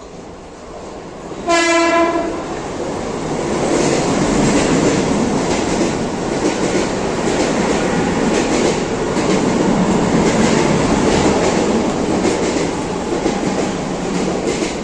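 A train sounds a single short horn blast about one and a half seconds in, then runs close past the platform with loud wheel rumble and regular clicking of the wheels over the rail joints.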